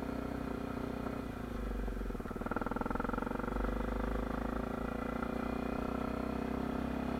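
Honda Tornado 250's single-cylinder four-stroke engine running steadily.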